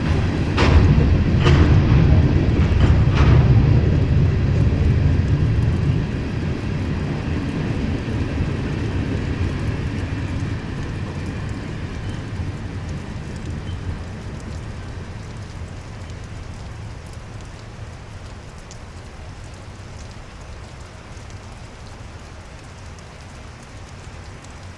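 Freight train of covered hopper cars rolling past, its steel wheels giving a few sharp clacks in the first few seconds. The low rumble fades away as the last cars go by, leaving steady rain.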